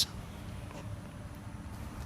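Quiet, steady background noise with a low rumble and no distinct sounds.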